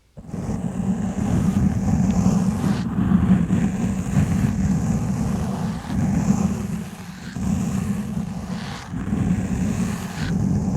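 Exfoliation gloves scrubbing and rubbing on a foam microphone windscreen: a continuous, dense, low scratchy rubbing that swells and eases, dipping briefly twice in the second half.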